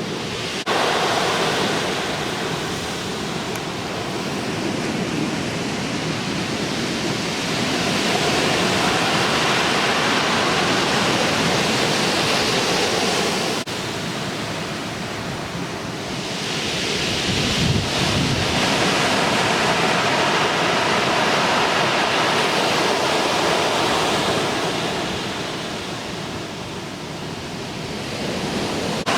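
Ocean surf breaking and washing in, a continuous roar that swells and eases over several seconds as sets of leftover typhoon swell come through. There is a brief low buffet of wind on the microphone near the middle.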